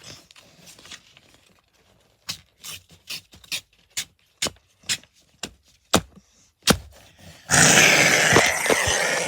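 A string of about a dozen sharp clicks or pops, then a loud, harsh, rasping noise lasting about two seconds near the end.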